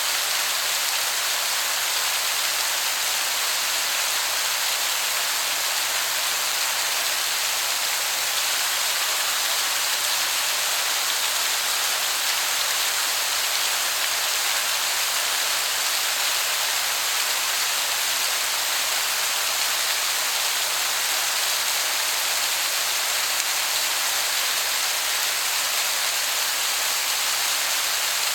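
Waterfall heard from a distance, a steady, even hiss of falling water that sounds like heavy rain.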